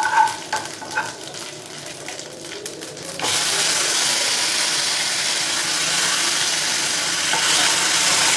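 Chopped tomatoes frying in a hot tempering of oil, mustard seeds, cumin and curry leaves, stirred with a metal spoon. A few light clinks of the spoon on the pan come first, then a loud, steady sizzle starts suddenly about three seconds in as the tomatoes hit the oil.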